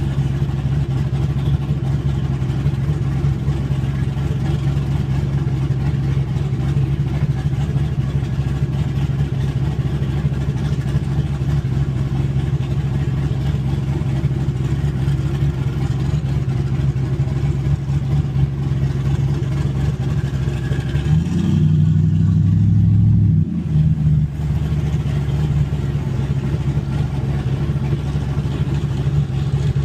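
Car engine and exhaust drone while cruising at a steady pace. It gets louder for a few seconds about two-thirds of the way through as the engine note drops and changes, like a gear change or throttle change, then settles back to the steady drone.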